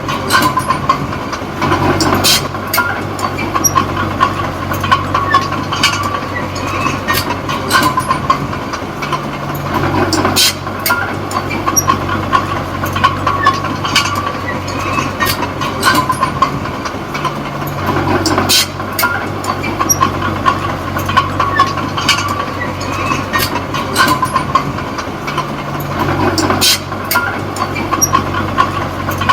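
Komatsu D20P small crawler bulldozer at work: its diesel engine runs under load while the steel tracks clank and rattle with frequent sharp clicks and a steady squeal. The sound swells and changes in a cycle that repeats about every eight seconds.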